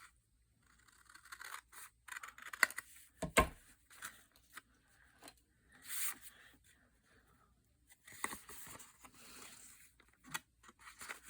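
Scissors cutting through a paper tag: a series of short snips and paper rustles, with a single knock about three seconds in.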